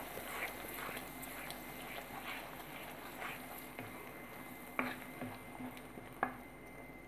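Onion, garlic and ginger paste frying in bubbling oil in a pan: a steady low sizzle, with a wooden spatula stirring and scraping through it. The spatula knocks against the pan twice, about five seconds in and again a second and a half later.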